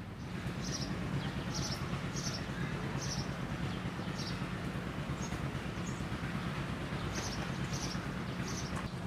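Outdoor ambience: a small bird chirping over and over, short high chirps about once or twice a second, over a steady low hum.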